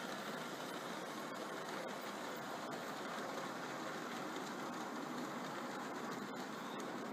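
Model railway train running on the layout: a steady mechanical rumble with a few faint clicks.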